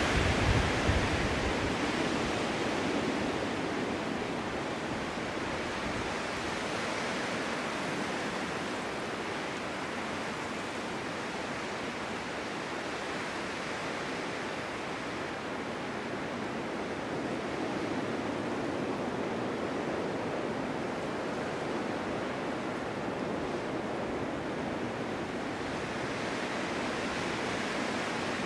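Strong winter wind blowing steadily, rising and falling in slow gusts, with a few low buffeting thumps right at the start.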